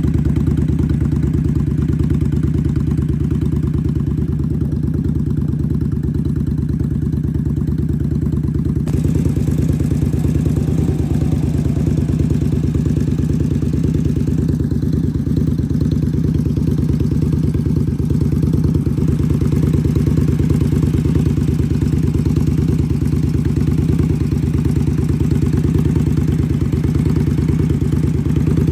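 2016 Indian Scout Sixty's liquid-cooled V-twin idling steadily through Vance & Hines exhaust pipes, with an even, unchanging pitch.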